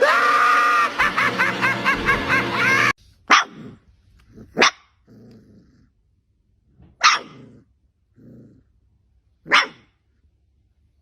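A loud sound with a wavering pitch cuts off suddenly about three seconds in. A dog then barks four sharp times, a couple of seconds apart, with low growls between the barks.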